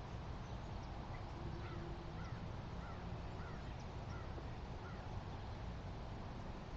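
Faint bird calls: a run of short chirps, a couple a second, over a low steady rumble.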